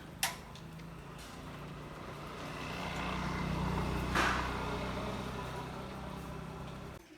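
A motor vehicle engine running steadily close by. It grows louder toward the middle and then eases off, and cuts off suddenly near the end. There is a sharp click just after the start and another midway.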